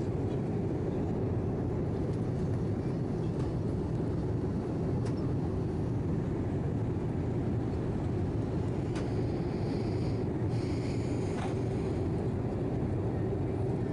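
Steady cabin drone of an Airbus A319 airliner in flight: the low rumble of engines and airflow heard inside the passenger cabin, even and unbroken.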